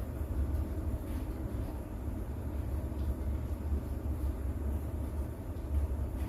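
Rain-and-thunder sleep soundscape: a steady deep rumble of distant thunder under an even wash of rain.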